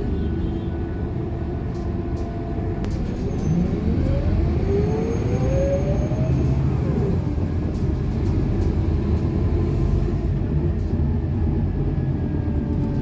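Scania K230UB bus engine running under way, with a rising whine about three to seven seconds in as the bus accelerates over a steady low rumble.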